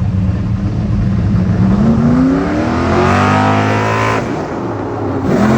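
A vehicle engine revving up under acceleration, its pitch climbing for a couple of seconds; about four seconds in it drops off sharply, then climbs again near the end.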